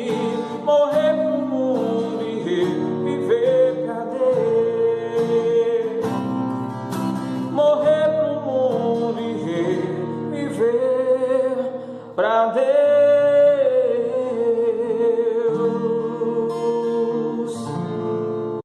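A man singing a Portuguese-language gospel song with acoustic guitar accompaniment, drawing out long, wavering held notes, until the music cuts off abruptly at the end.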